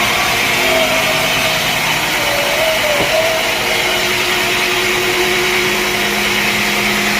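Sawmill machinery running: a loud, steady motor noise with a faintly wavering whine over a low hum.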